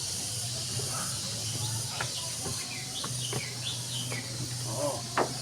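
A few short bird chirps about three to four seconds in, over a steady hiss and a low hum, with one sharp click near the end.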